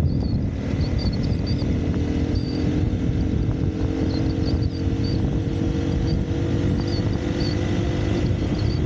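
Dirt bike engine running steadily under way, with a heavy low rumble, its pitch creeping slowly upward.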